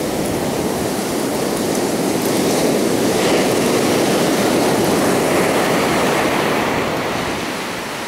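Ocean surf: a wave washing far up the beach, a continuous rush of water that swells to its loudest midway and eases off near the end.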